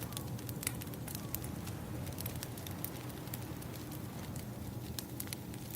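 Wood fire crackling, with irregular sharp pops and snaps, over a steady low rush of ocean waves.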